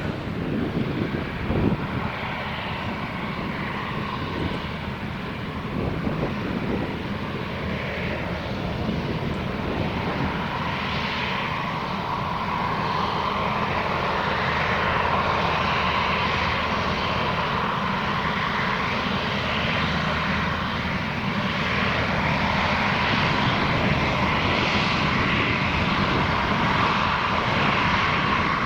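Airbus A350's Rolls-Royce Trent XWB jet engines during a takeoff: a continuous rushing engine noise with a steady whine that grows louder over the second half.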